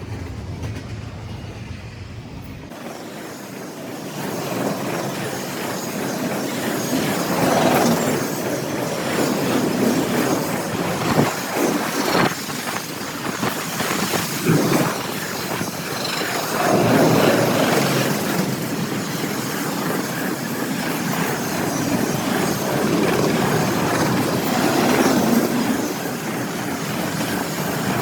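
CSX intermodal freight train rolling past at speed: a steady rumble and clatter of steel wheels on rail, swelling every few seconds as cars go by, with some wheel squeal.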